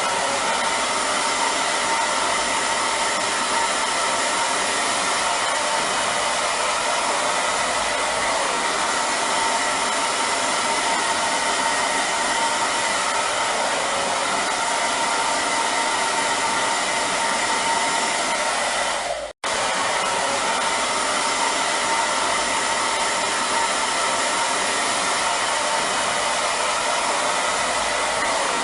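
Hair dryer running steadily: an even rush of air with a faint steady whine. It cuts out for a split second about two-thirds of the way through, then resumes unchanged.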